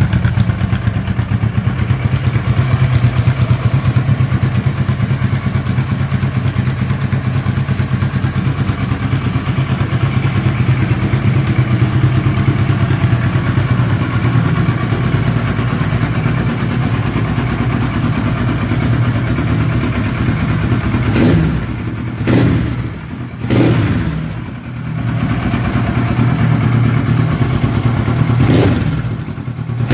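Kawasaki ER-6n's parallel-twin engine through a loud custom exhaust, idling steadily. About two-thirds of the way in it is revved in a few quick throttle blips, the pitch rising and falling each time.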